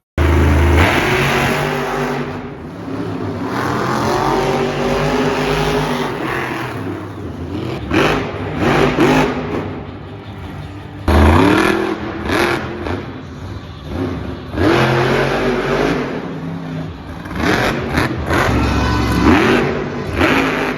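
Monster truck engines revving hard, the pitch rising and falling again and again, with sudden loud surges right at the start and again about halfway through.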